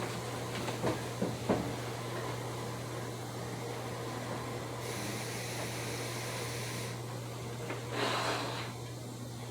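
Inside an electric commuter train car standing still: a steady hum from the car's equipment and ventilation, with a few light clicks in the first couple of seconds. A high hiss comes in about five seconds in and stops two seconds later, and a short louder rush of noise follows about eight seconds in.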